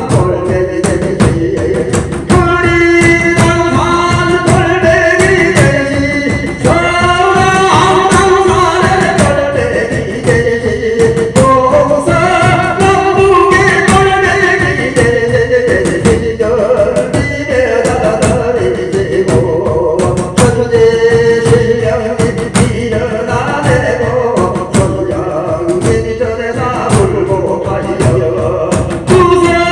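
Korean shamanic scripture chant (gyeongmun) sung in a wavering voice over a steady, regular drumbeat, invoking the spirits.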